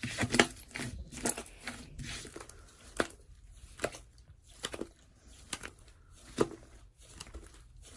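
Irregular light clicks and rustling, like small objects being handled close to the microphone, roughly one or two clicks a second.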